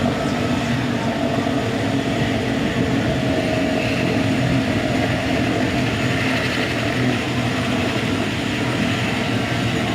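Military helicopter running steadily, its rotor and turbine engine loud and continuous.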